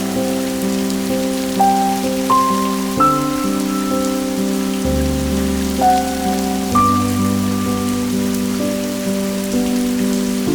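Steady rain falling, mixed with soft, slow music: single melody notes entering every second or so over held chords.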